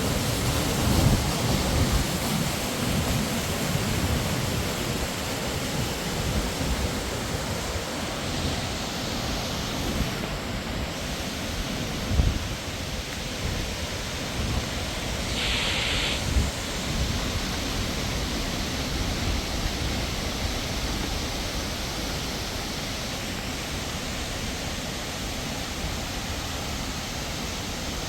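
Steady rushing of a waterfall, with low gusts buffeting the microphone. A short, higher-pitched sound stands out about halfway through.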